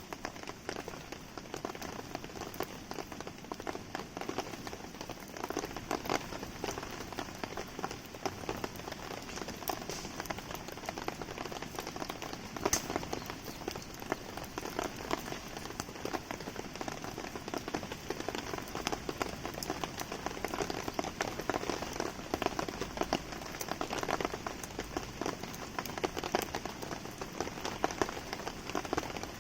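Steady rain pattering, mixed with a wood campfire crackling, with scattered sharp pops throughout.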